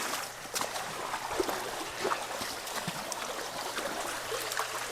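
Ditch water running and trickling at a culvert, with a few small splashes.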